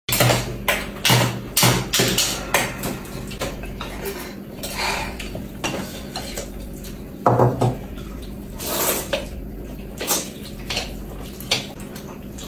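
Tableware clinking during a meal: utensils knocking against bowls and plates in irregular clinks, a few louder knocks among them.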